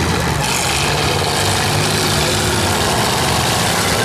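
Several demolition derby cars' engines running and revving together in a loud, steady mix of engine noise.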